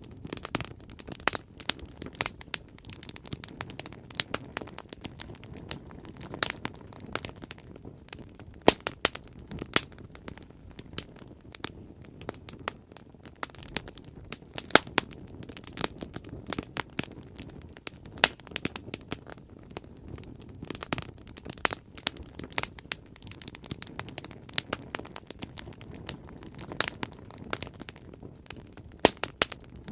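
Bonfire burning: irregular sharp crackles and pops of burning wood, several a second, over a steady low rush of the flames.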